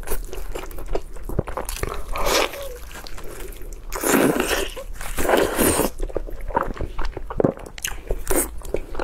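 Close-miked eating sounds: biting, tearing and chewing a braised pork knuckle. Wet, sticky mouth sounds and clicks come in irregular bursts, the loudest about halfway through.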